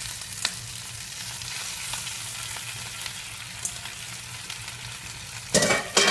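Onions and garlic sizzling steadily in a cast-iron pan, with a few small clicks and a brief, louder burst of noise near the end.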